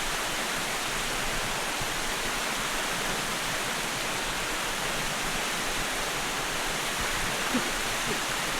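Small waterfall on a stream, its water rushing steadily and evenly.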